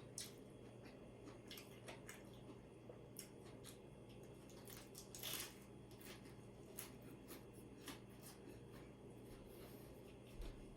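Near silence, broken by scattered faint light clicks and clinks, with a short, slightly louder scrape about five seconds in: cutlery and dishes being handled during a meal.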